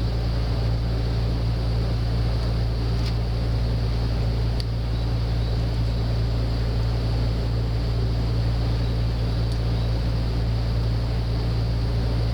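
Steady low machine hum with an even background rush, unchanging throughout, with a couple of faint light clicks a few seconds in.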